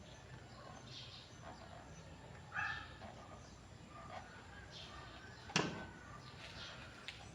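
Birds chirping in the background, with a louder short call about two and a half seconds in and a sharp knock a little past halfway.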